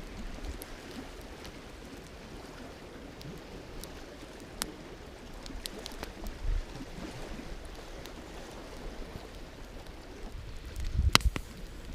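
Campfire crackling: a few scattered sharp pops over a steady hiss. Near the end, a louder pop comes with low rumbling of wind on the microphone.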